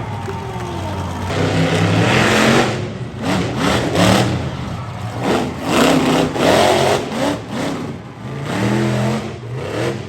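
Monster truck engine revving hard in repeated surges, its pitch climbing and dropping four or five times.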